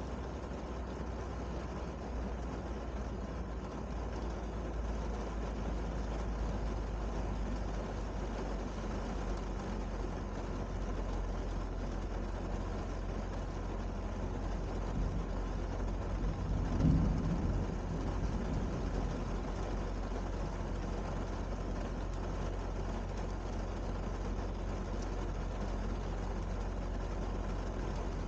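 Steady rain, with a constant low rumble beneath it and one short, louder low thud a little past halfway.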